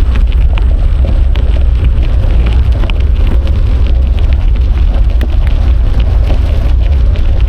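Loud, steady wind buffeting on an action camera's microphone while riding a bicycle, with many small clicks and rattles from the ride mixed in.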